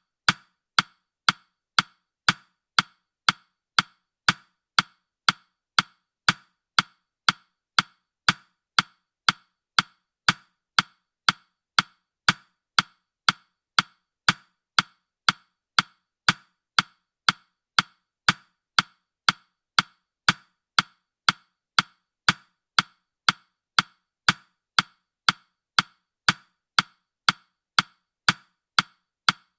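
Countdown timer ticking sound effect: short, sharp, woody clock ticks at an even pace of about two a second.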